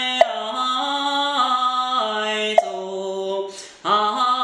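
A Daoist priest softly chanting a Quanzhen scripture melody, holding long syllables that slide slowly between pitches. A sharp knock falls about every two and a half seconds, and there is a quick breath near the end.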